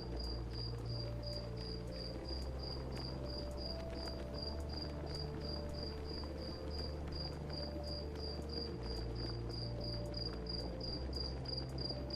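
Cricket chirping steadily, about four short high chirps a second, over low sustained tones that change pitch every few seconds.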